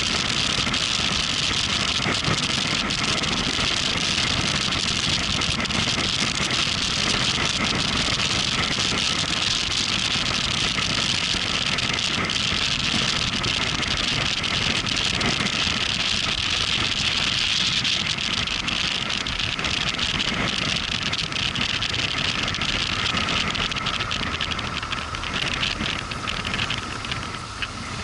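Motorcycle running at road speed, a steady mix of engine and wind noise that eases off near the end.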